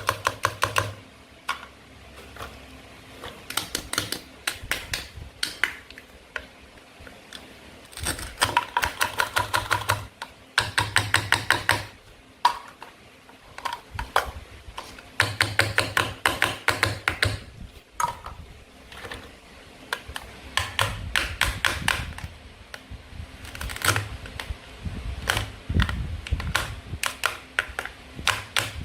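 Toy food being cut with a toy knife: bursts of rapid clicking, each lasting a second or two, with short quiet gaps between them.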